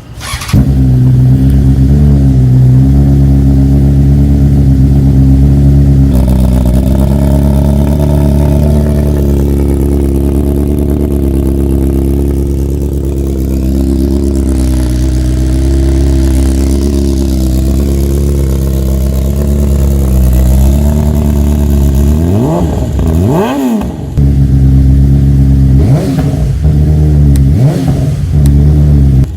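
BMW S1000 RR's inline-four engine, breathing through an Akrapovic exhaust, idling steadily and loudly. Near the end the throttle is blipped several times, each rev rising sharply and falling back to idle.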